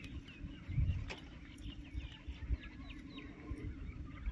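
Birds chirping in many short, quick high calls, over an irregular low rumble.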